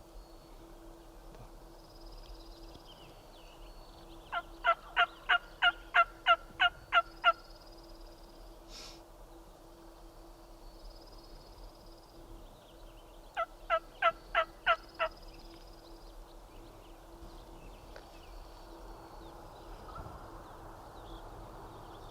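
Two runs of loud turkey yelps, about ten evenly paced notes at roughly three a second, then a shorter run of six about ten seconds later.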